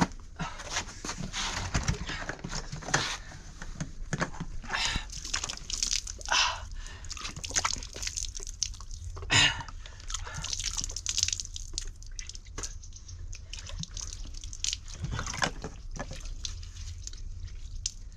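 Water sloshing and dripping, with irregular small splashes throughout.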